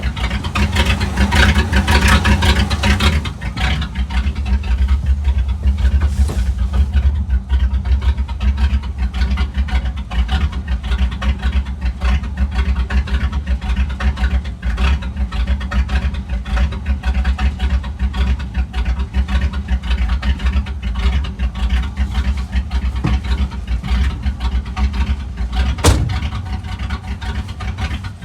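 1985 Chevy C20 pickup's engine running just after a cold start. It is louder and fuller for the first three seconds or so, then settles into a steady idle. There is one brief sharp click or snap near the end.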